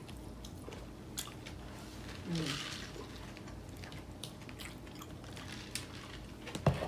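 People chewing and eating takeout food at close range, with scattered small clicks and a short falling hum about two and a half seconds in.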